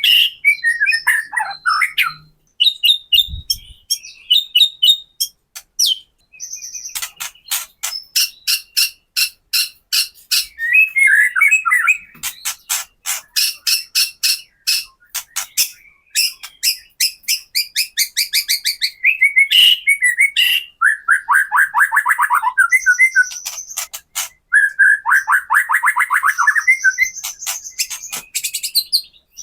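White-rumped shama (murai batu) singing its 'kretekan': rapid runs of sharp clicking and chattering notes that alternate with short whistled and warbled phrases.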